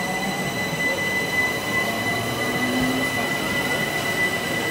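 Southeastern electric multiple-unit passenger train running past on the adjacent track: a steady rumble of wheels on rails with a steady high-pitched whine.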